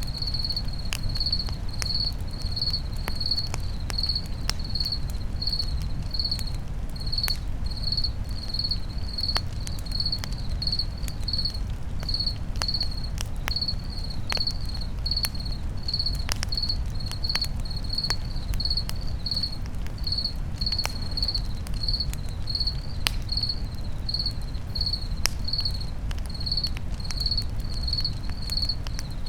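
A cricket chirping steadily, a little under two chirps a second, over a crackling campfire with scattered sharp pops and a low rumble.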